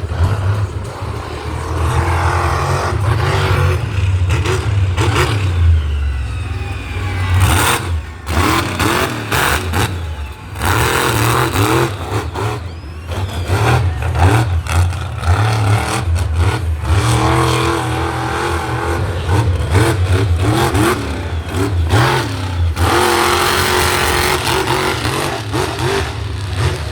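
Engines revving hard, again and again, their pitch rising and falling over a heavy low rumble.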